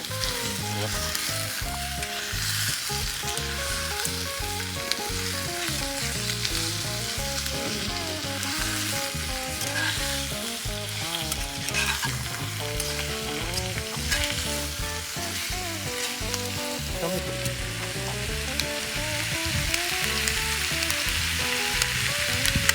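Chicken wing pieces sizzling steadily as they fry in a skillet.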